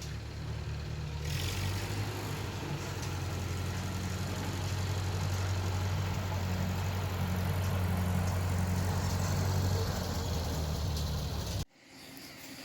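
An engine running steadily at a low hum. It picks up slightly about a second in and cuts off abruptly near the end.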